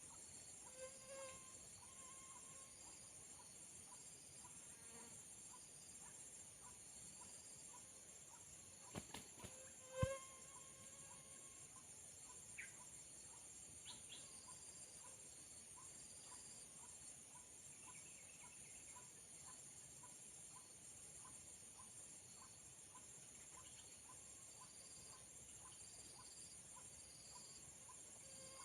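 Faint, steady high-pitched chirring of insects, with faint short notes repeating about twice a second underneath. A few sharp clicks come about 9 to 10 seconds in.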